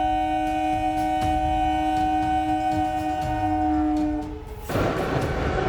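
Train horn sounding one long, steady chord that cuts off about four seconds in. Moments later the loud rolling noise of a passing train takes over.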